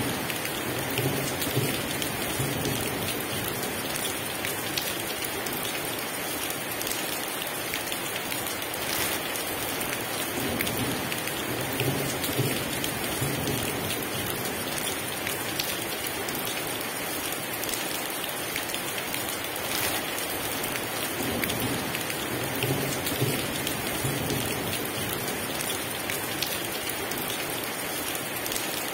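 Heavy rain pouring steadily, with low rumbles of thunder swelling and fading about three times.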